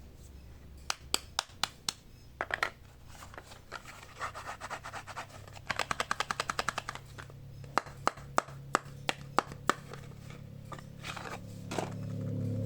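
Close-up handling sounds of soap packaging being unboxed: scattered crisp taps and clicks with soft rubbing and scratching between them. Roughly midway there is a quick run of about a dozen rapid taps, like fingernails tapping.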